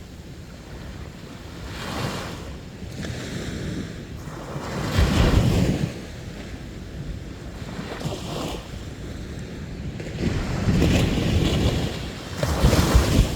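Sea waves breaking on a beach, the surf swelling and washing in about every three seconds, loudest twice, with wind rumbling on the microphone.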